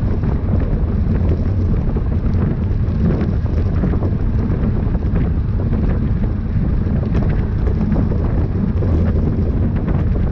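Wind buffeting the microphone of a camera on a bicycle moving at race speed: a steady low rumble with faint scattered ticks.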